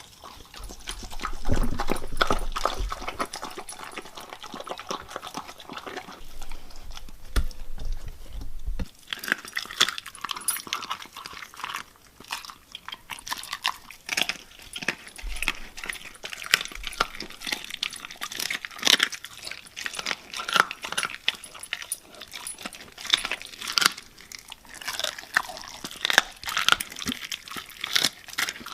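A dog, heard over a dense run of irregular sharp clicks and crunches.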